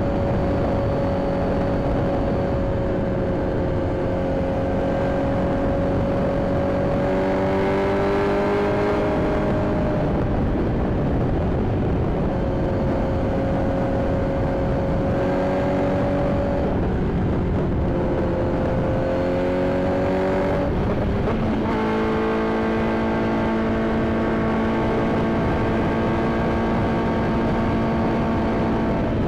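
Inline-four sport motorcycle engine running at a steady cruise over a constant rush of noise. The engine note creeps up and shifts about a third of the way in, again past halfway, and settles into a steady lower, fuller note for the last third.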